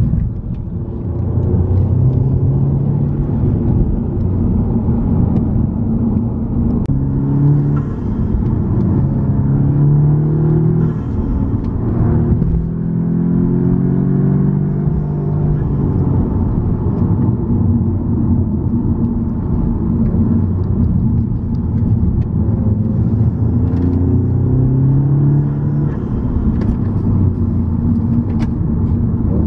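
Car engine and road rumble heard from inside the cabin; the engine note rises in pitch several times as the car accelerates and falls back in between.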